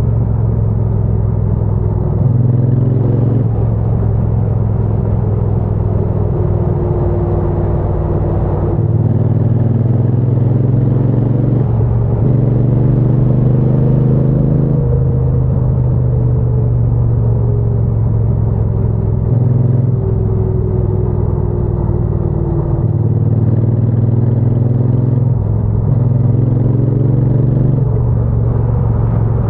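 Triumph Bonneville T120 parallel-twin engine and exhaust running under way. The engine note breaks and resets every few seconds, about eight times, as throttle and gears change.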